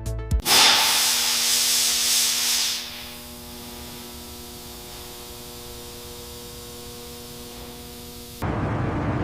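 A loud hissing spray starts suddenly about half a second in and drops to a quieter, steady hiss at about three seconds; near the end it gives way to a lower, rougher rushing noise.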